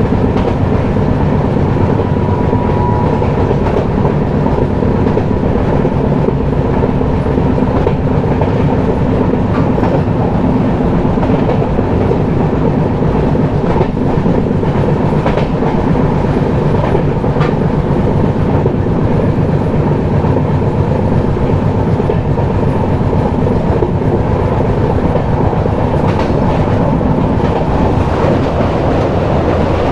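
A passenger express train running at speed, heard from on board: a steady rumble of the coaches on the track, with a few faint wheel clicks over rail joints.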